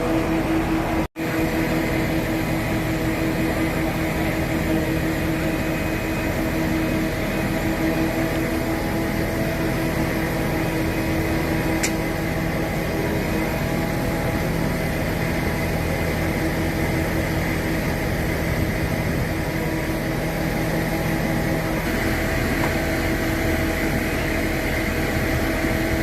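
Large engine running steadily at an even speed, a constant drone with a steady hum over it. The sound cuts out for an instant about a second in.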